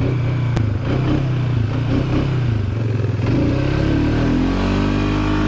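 ATV engine running under throttle. About three seconds in, its pitch rises and then holds high as it revs to push through deep snow, where the tyres are getting stuck.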